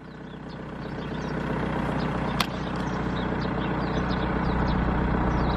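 BMW 3 Series four-cylinder diesel idling steadily just after a cold start in frost with none of its four glow plugs working. It grows louder over the first couple of seconds, with one sharp click about two and a half seconds in.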